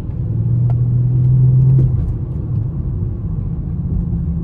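Car engine running with a deep, steady rumble. It swells over the first two seconds, then eases off.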